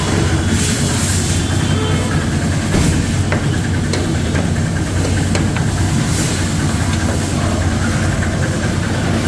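Pressure washer running and spraying water: a steady motor hum under a constant hiss of spray.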